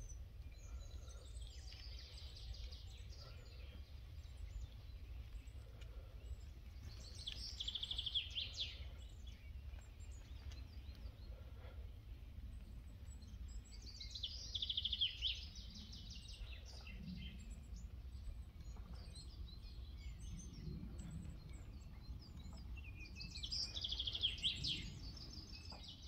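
A songbird singing three short trilled phrases, spaced roughly seven to nine seconds apart, with a few faint chirps between, over a steady low rumble.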